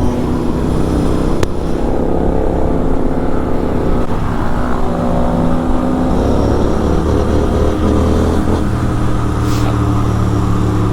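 Superbike engine with a full-system aftermarket exhaust running at speed, its note steady and shifting slowly up and down in pitch with the throttle.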